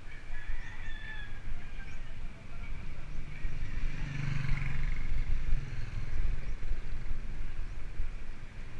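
Wind rumbling on the microphone during a bicycle ride, with a motor vehicle's hum swelling and fading about four to five seconds in.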